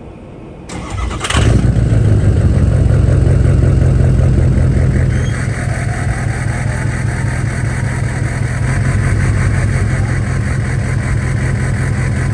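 6.0 L Powerstroke turbo-diesel V8 of a 2004 Ford F-350, straight-piped with the muffler and catalytic converter deleted, starting about a second in and then idling loudly and steadily.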